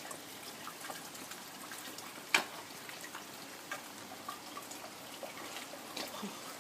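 Water pouring and trickling down a drain, with one sharp knock a little over two seconds in.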